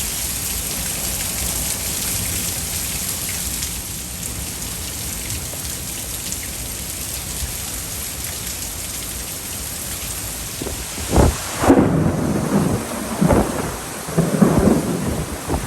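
Steady heavy rain, then from about eleven seconds in a series of loud, uneven rumbles of thunder.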